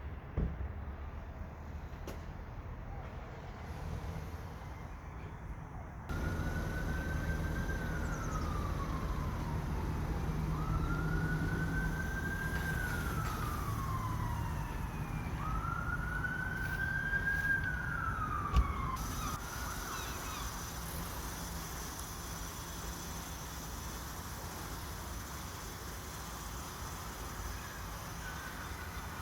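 Emergency vehicle wail siren, three slow cycles each rising quickly and falling away over about four seconds, over a low rumble of traffic.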